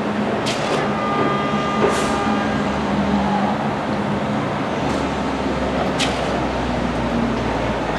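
A train running along the track: a steady rumble with a few sharp metallic clanks and a brief high squeal from about one to two and a half seconds in.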